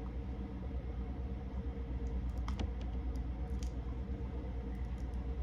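A few faint clicks and crackles of seafood shells being handled, clustered about two and a half seconds in and again shortly after, over a steady low hum.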